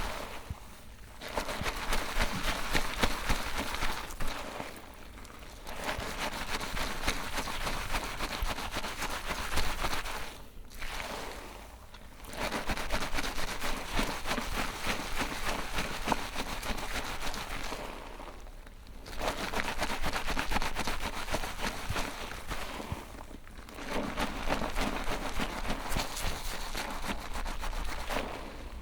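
Hair being shampooed at a salon basin: a crackling, hissing wash noise in about five long passes, each separated by a brief pause.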